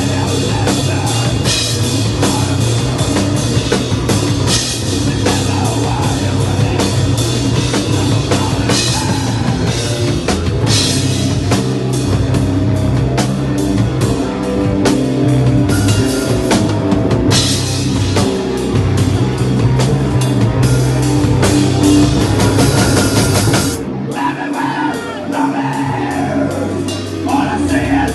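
Hardcore band playing live in a raw room recording: distorted guitars, bass and drum kit with cymbals. Near the end the drums and low end drop out for a few seconds, leaving thinner sliding guitar sounds, before the full band comes back in.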